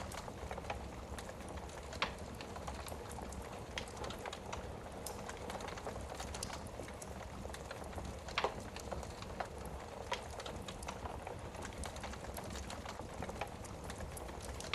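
Wood fire burning in a fireplace, crackling with irregular sharp pops over a steady low hiss; two louder pops about two seconds in and past the middle.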